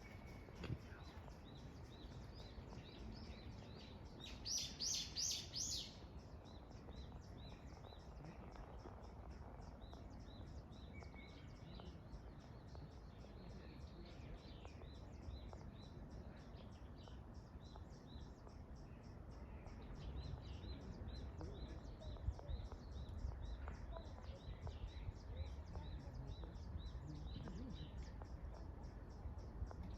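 High chirps repeated rapidly and evenly all through, with a louder run of about five chirps around four to six seconds in. A faint low rumble sits underneath and grows a little in the second half.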